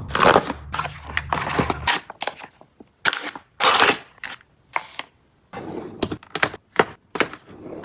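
Items being handled and set down during restocking: irregular knocks, clacks and clicks with short rustling stretches, as of containers and packaging. A low hum runs under the first two seconds.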